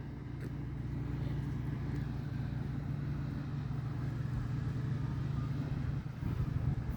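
A steady low engine hum, as of an engine idling.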